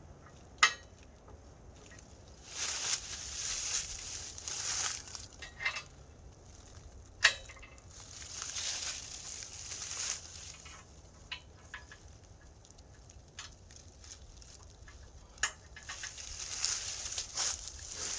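Digging work in dirt and leaf litter: three sharp metal clinks, each followed a second or two later by a longer scraping, crunching stretch.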